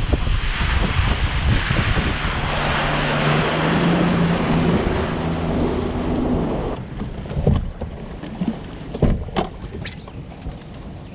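Wind buffeting the microphone on a fishing boat, over a motor's steady hum. About seven seconds in, the wind drops off and a few short knocks and clicks follow.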